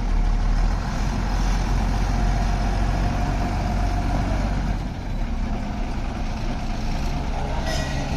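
Truck engine running steadily with a deep rumble, easing off slightly about halfway through.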